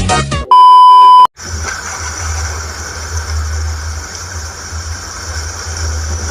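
Music cuts off, a loud steady beep sounds for under a second, and then a truck engine sound effect runs: a steady low rumble with a hiss over it.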